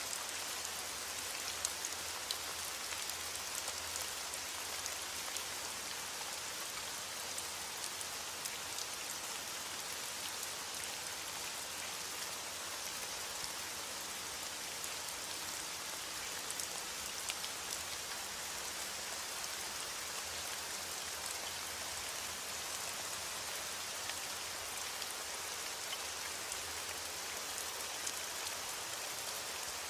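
Heavy rain on a window, a steady dense patter with a few scattered sharp ticks.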